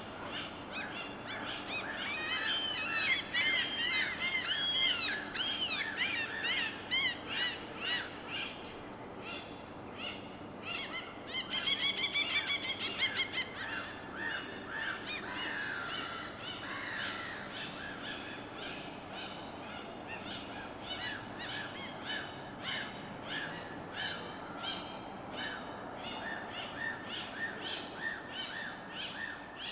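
Several birds calling over one another: a run of arching calls in the first few seconds, a loud call with several layered tones near the middle, then rapid repeated chirping.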